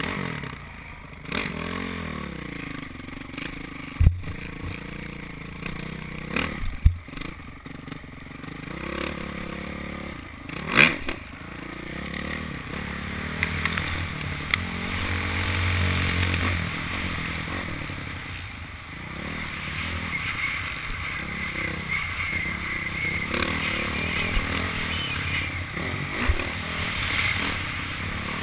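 Honda CRF450 motocross bike's four-stroke single-cylinder engine revving up and falling back again and again as it is ridden hard, heard from the onboard GoPro, with sharp knocks about 4, 7 and 11 seconds in.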